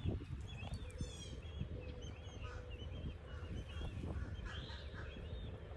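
Several small birds chirping and calling over and over, with wind rumbling low on the microphone.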